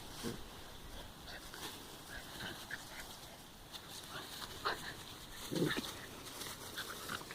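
Dogs playing: faint scuffling and small noises, with one short dog vocal sound about five and a half seconds in.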